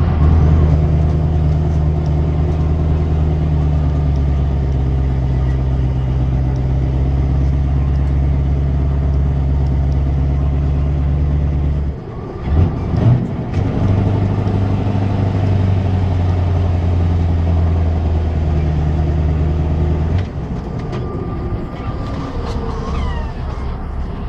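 Scania 164 480 V8 truck engine with a straight exhaust, running loud at steady held revs. About halfway through it drops off briefly with a couple of short blips, then holds steady again. A few seconds before the end it falls back to a quieter level.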